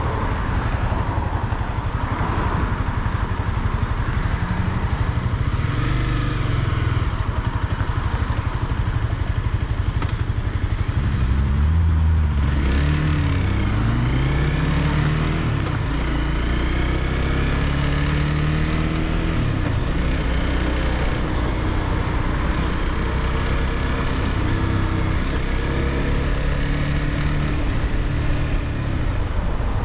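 Honda CBR300R's single-cylinder engine under way. Its pitch climbs and drops with gear changes about a third of the way in, then it runs at a fairly steady speed, under constant wind and road noise.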